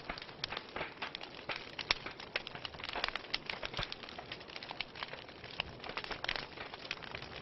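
Wood fire burning in a fireplace, crackling with many irregular sharp pops and snaps over a soft steady hiss.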